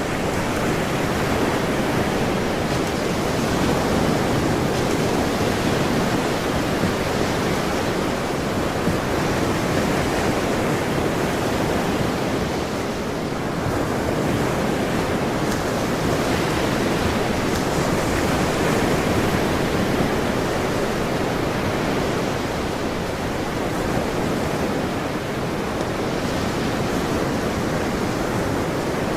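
Ocean waves washing on a shore, a steady rush of surf that swells and eases gently every several seconds.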